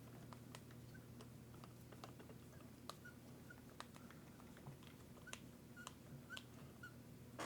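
Faint, irregular light clicks and ticks from small parts and tools being handled during work on an RC truck, over a low steady hum.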